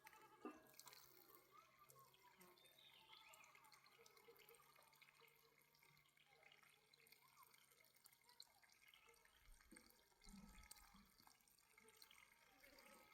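Near silence, with faint dripping and trickling water.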